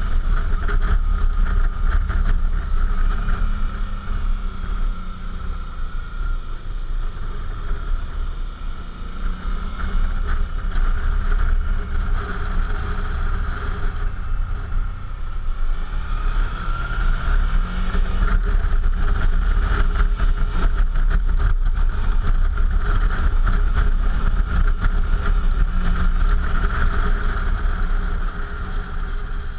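Suzuki V-Strom motorcycle on the move, its engine pitch rising and falling with the throttle, under heavy wind buffeting on a GoPro microphone. It eases off twice in the first half and runs steadier and louder through the second half.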